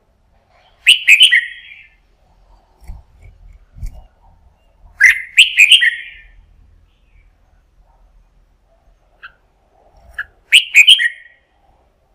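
Red-whiskered bulbul singing: three short, loud, clear whistled phrases a few seconds apart, with faint low thumps in between.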